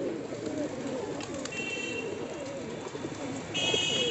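A flock of domestic pigeons cooing, many calls overlapping without pause. A high, thin tone sounds briefly in the middle and again, louder, near the end.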